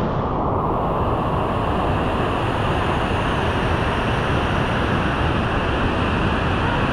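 Steady rushing of a fast-flowing jungle river, an even wash of water noise without breaks.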